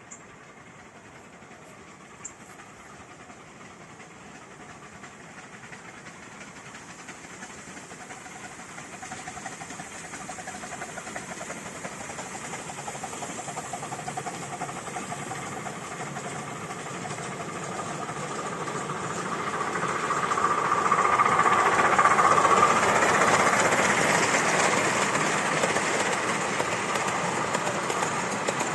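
Steam-hauled train approaching, its noise and hiss growing steadily louder for about twenty seconds, loudest as it draws level, then easing slightly near the end.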